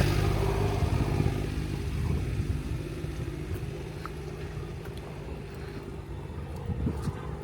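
A motor vehicle's low engine rumble, loudest at the start and fading over the first couple of seconds, then a steady, quieter rumble.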